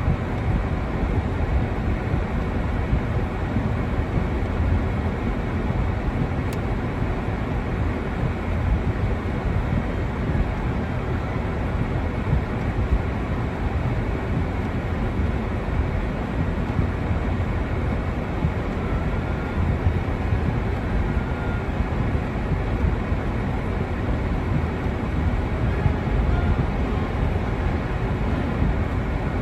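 Steady outdoor noise throughout: a deep rumble with a softer hiss above it, unchanging and without distinct events.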